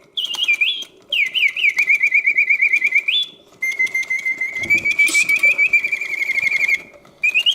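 Vintage Reuge double singing bird cage in continuous mode: the bellows-driven whistle sings birdsong phrases of rapid chirping trills and rising sweeps, with the two birds taking turns. Short pauses fall between the phrases.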